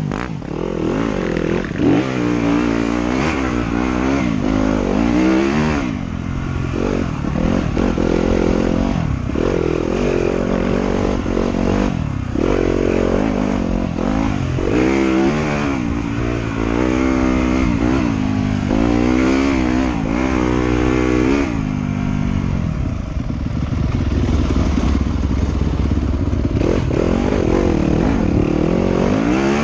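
Trail motorcycle engine being ridden, revving up and dropping back again and again, its pitch rising and falling every second or two.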